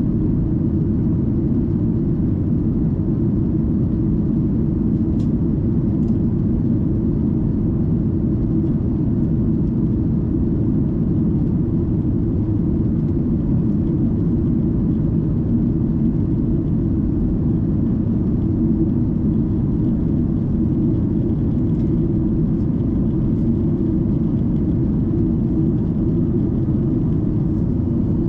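Steady low rumble of a Boeing 737-800 in flight as heard inside the passenger cabin: its CFM56 jet engines and the airflow over the fuselage, even and unchanging throughout.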